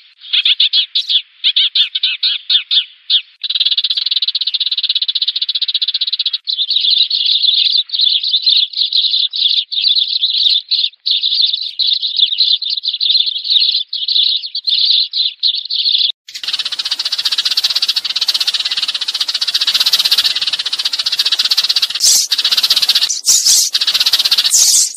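Sparrows chirping in a rapid, dense chatter: the flock-calling sound used as a lure. About sixteen seconds in it cuts abruptly to a harsher, hissing rattle.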